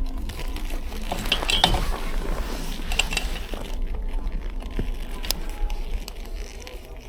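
Bicycle rolling over snow: a steady low rumble with scattered clicks, rattles and crunches.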